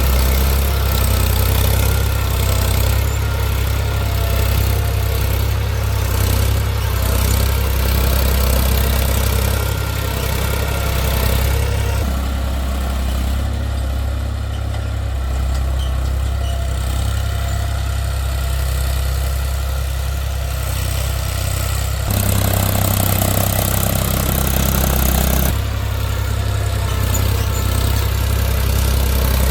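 Eicher tractor's diesel engine running steadily at low engine speed under field work. Its tone changes abruptly about 12 and 22 seconds in, and a hiss is added for a few seconds near the end.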